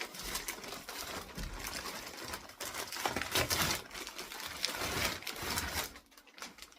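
Packaging of an online-ordered parcel being opened by hand: irregular rustling and crinkling, dying down about six seconds in.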